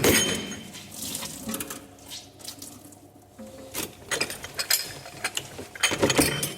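Scattered clicks, knocks and clatter around a kitchen sink, with some water, and a sharp knock at the start.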